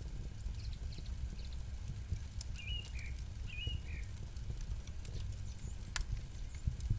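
Campfire crackling, with scattered sharp pops over a low rumble. A bird chirps twice about three seconds in.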